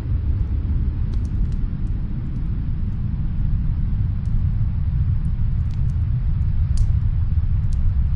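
Steady low rumble of snowstorm wind, with faint, scattered crackles of a wood fire in a fireplace.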